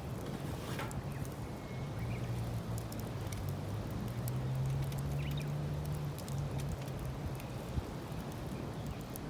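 Wood campfire crackling, with scattered sharp pops and ticks over a low steady rumble.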